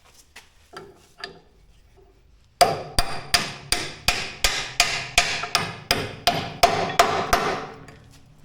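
A hammer striking steel in a steady run of about sixteen ringing blows, roughly three a second, starting a few seconds in after a few light knocks. The blows drive parts of a skid steer's quick-attach, its pins and bushings, into place.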